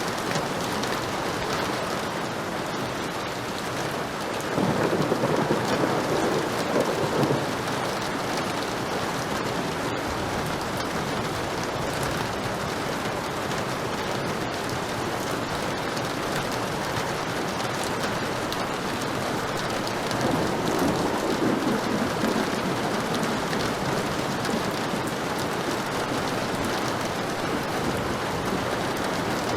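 Heavy rain falling steadily, with two rolls of thunder: one about five seconds in lasting a few seconds, and another about twenty seconds in.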